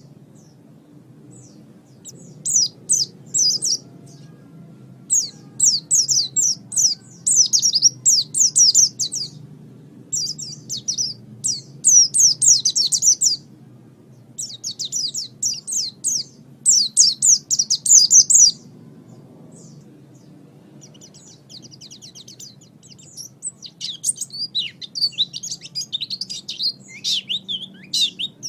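White-eye (pleci) singing: fast, high twittering phrases of a second or two each, with short pauses between them. The song turns into more continuous twittering in the last few seconds, over a faint low hum.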